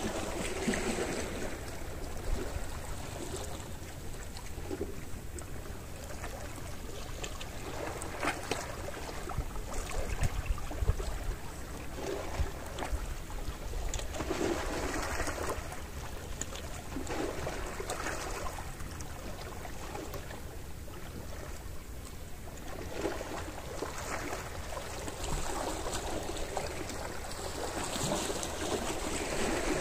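Small sea waves lapping and washing onto the shore, one after another every few seconds, with a low rumble of wind on the microphone.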